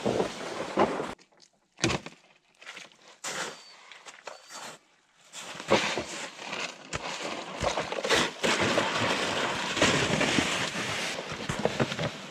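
Footsteps and dragged sleds crunching and scraping through wet snow and slush, uneven and irregular. A quieter stretch of scattered knocks comes about a second in, then the scraping runs on steadily.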